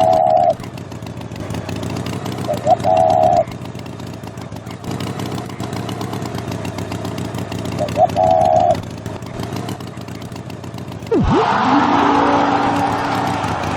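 An engine running steadily, with a short pitched call three times. Near the end comes a swooping sound effect, then a rising run of tones over a louder hiss.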